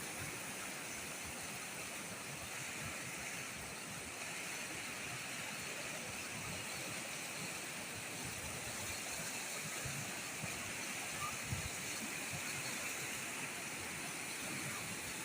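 A river in flood, its water rushing with a steady, even noise.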